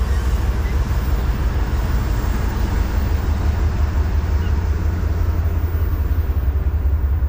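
Loaded freight train of covered hopper cars rolling past with a steady heavy rumble, its higher rattle and hiss easing off about five seconds in.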